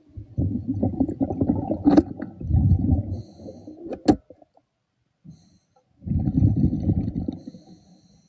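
Diver's exhaled air bubbling out underwater in two long rumbling bursts with a pause between them, with a couple of sharp clicks during and just after the first burst.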